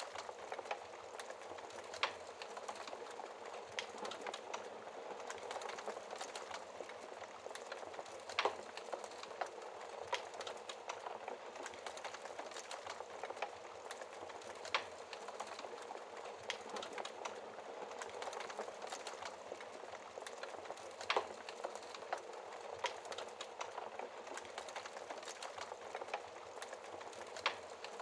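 Wood fire burning in a fireplace and crackling: a steady hiss with frequent small snaps and a few louder sharp pops.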